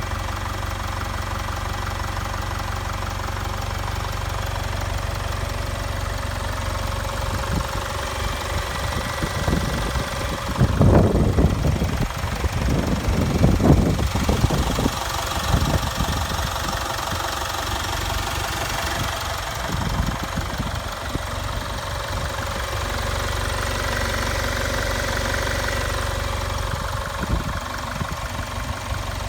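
Jaguar XE's 2.0-litre Ingenium four-cylinder turbodiesel idling steadily, the normal sound of a healthy, nearly new engine. For several seconds around the middle, louder irregular low rumbling sits over the idle.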